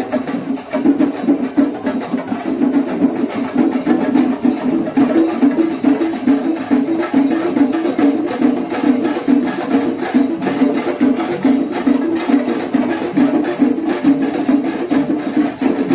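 Kerala chenda melam: a group of chenda drums beaten in a fast, dense, unbroken rhythm.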